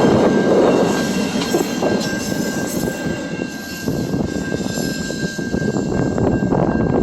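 A train rolling past: a steady rumble of wheels on rail with a thin, steady high squeal over it. Near the end, a run of quick clacks of wheels over rail joints.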